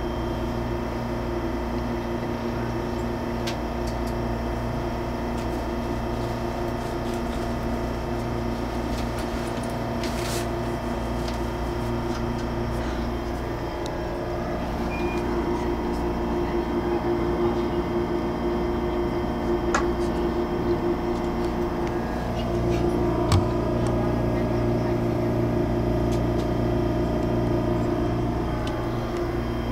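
Steady hum of an MTR Airport Express CAF electric train heard from inside the passenger cabin, several constant low tones over a noise bed, growing slightly louder about halfway through, with a few faint clicks.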